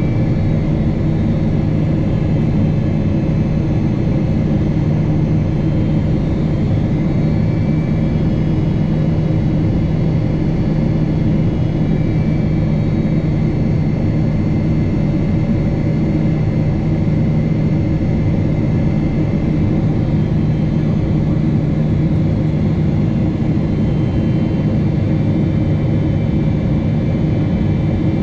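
Steady engine and airflow rumble inside the cabin of a Boeing 777-300 airliner, with a constant low hum and no change in level.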